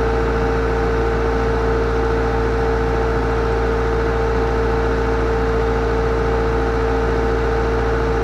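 Kubota L3750 tractor's diesel engine idling steadily, with a constant whine riding over the low engine hum.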